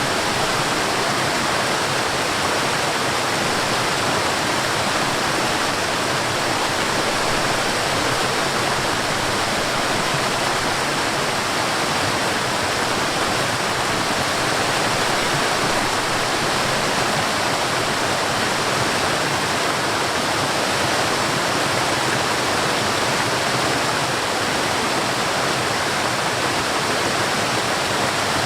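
A forest waterfall, water falling and rushing in a steady, unbroken hiss with no change in level.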